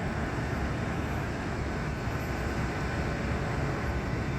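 Steady low industrial rumble of sugar-cane mill machinery running during cane milling, with a faint high steady tone joining about a second and a half in.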